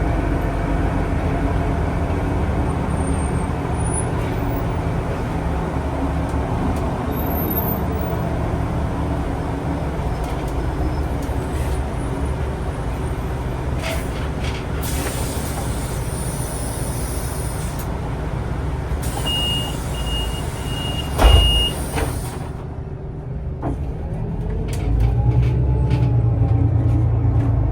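City bus heard from on board, its engine rumbling steadily. Near the end a short run of high warning beeps and a sharp thump, typical of the doors closing, are followed by the engine rising as the bus pulls away.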